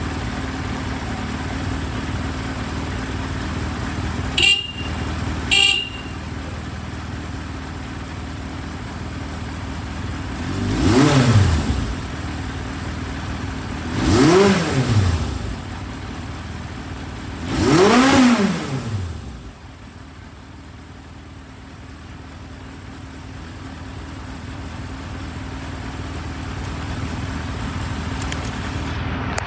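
Yamaha YZF1000R Thunderace's inline-four engine idling. Two short horn beeps come about four and five seconds in, then three quick revs, each rising and falling in pitch, a few seconds apart, before the engine settles back to a steady idle.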